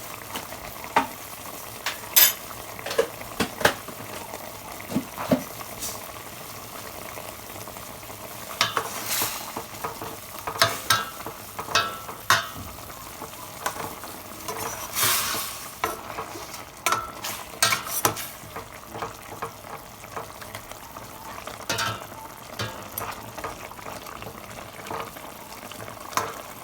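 Chicken adobo sizzling and bubbling in a pot as its sauce reduces, with a spoon stirring and knocking against the pot many times.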